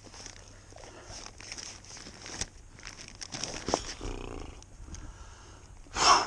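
Rustling, crinkling and small knocks of gear being handled in a kayak, with a short, loud burst near the end.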